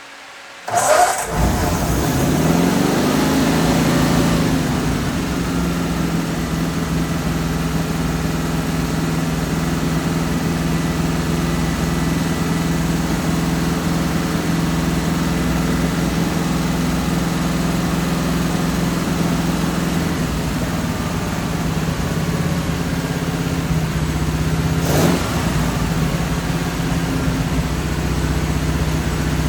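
Flathead Ford V8 engine starting about a second in, its speed flaring and then falling to a steady idle, with one quick rev of the throttle near the end.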